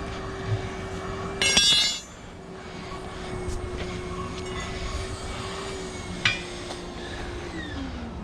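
Steel tire-changing tool clanking against metal with a bright ringing about a second and a half in, then a lighter metallic clink near six seconds. A steady hum runs underneath and drops in pitch near the end.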